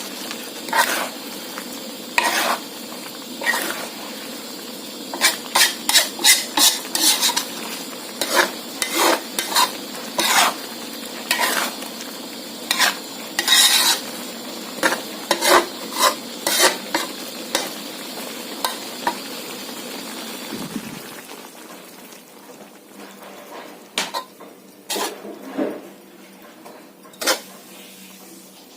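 Seafood stir-frying in curry paste in a hot pan: a steady sizzle under repeated sharp scrapes and clinks of a spatula against the pan. About two-thirds of the way through, the sizzle drops away and only occasional clinks remain.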